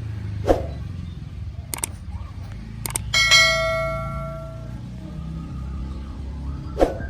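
A bright bell-like ding with several ringing tones that fades over about a second and a half, a few seconds in, just after a couple of sharp clicks. A sharp hit comes near the start and another near the end, over a steady low rumble.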